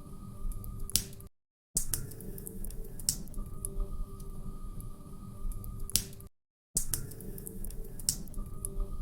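Wood fire crackling in a fireplace: scattered sharp pops and snaps over a low rumble of flames. The sound cuts out to silence briefly twice, about five seconds apart.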